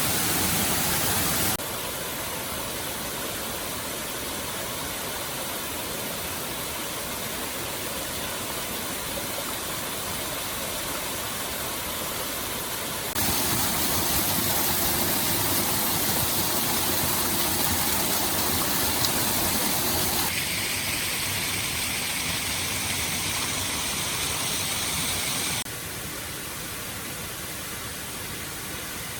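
Stream water flowing in a steady rush that shifts abruptly in loudness and tone several times.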